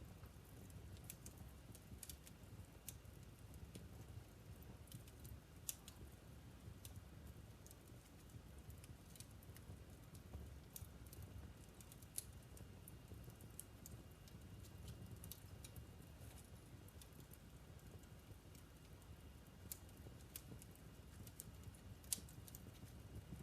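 Wood fire burning in a fireplace: faint, irregular crackles and pops from the burning logs over a low, steady rumble of the flames, with a sharper snap near the end.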